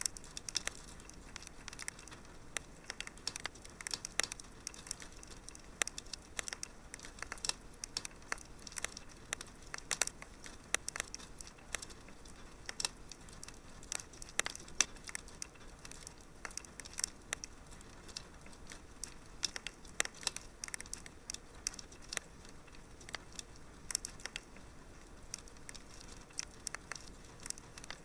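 Wood fire crackling steadily in a fireplace, with frequent irregular sharp pops and snaps over a soft hiss.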